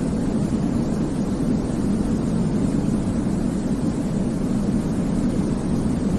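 Steady sleep white noise, unchanging, with most of its weight low down as a deep, even rumbling hush rather than a bright hiss.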